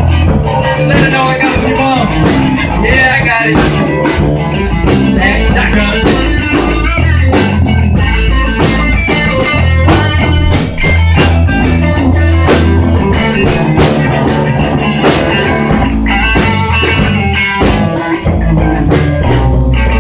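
Instrumental rock played by a small band: guitar playing quick lead lines over bass and a drum kit, with no singing.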